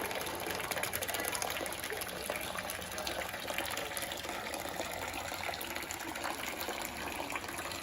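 Water running in a steady, gushing stream.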